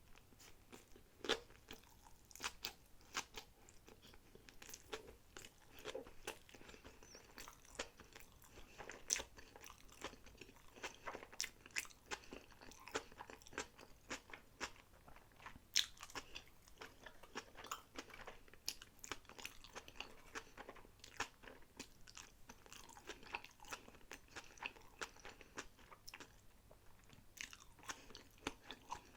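Close-miked chewing of sushi rolls: a steady run of soft crunches and wet mouth clicks, with two louder crunches about a second in and about halfway through.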